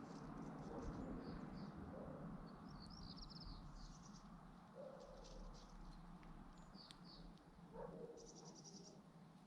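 Sparrow chirping faintly in a few short bursts of quick, high notes, over a low background rumble.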